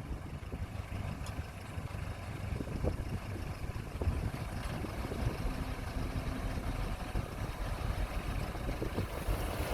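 Diesel engine of heavy earthmoving equipment running steadily at low revs, a low rumble with a few faint clanks.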